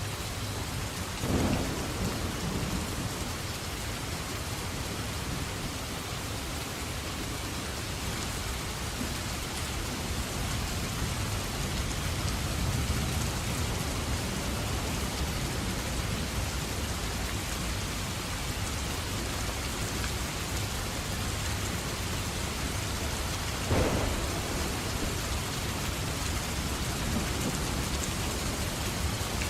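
Thunderstorm: steady rain falling, with a sharp crack of thunder about a second in that trails off into a low rumble, and another sharp thunderclap near the end.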